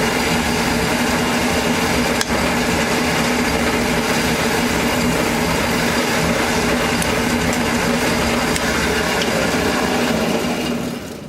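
An electric workshop power tool runs steadily at a constant pitch, then spins down and stops near the end.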